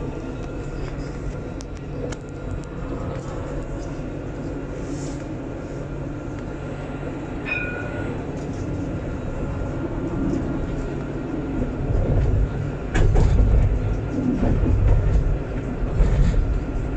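Alstom Citadis 402 tram running along its line with a steady low rumble of wheels and running gear. A brief high tone sounds about seven seconds in, and the rumble grows louder with a run of thumps in the second half.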